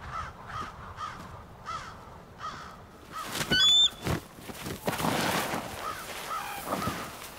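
Birds calling: a steady run of short repeated calls, about two a second, with a sharp, high whistled call about three and a half seconds in that is the loudest sound. A rush of noise comes around five seconds in.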